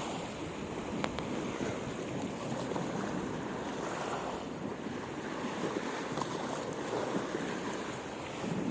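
Strong wind buffeting the microphone over the steady wash of waves on the shore, with a single click about a second in.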